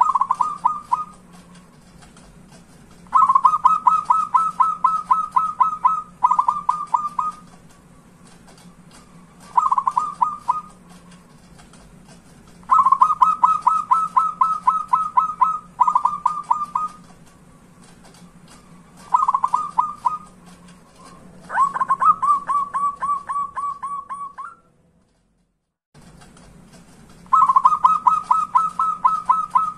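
Zebra dove (perkutut) cooing: repeated phrases of fast staccato notes, each one to three seconds long, with short pauses between, over a steady low hum. The sound drops out completely for about a second and a half near the end, then the cooing resumes.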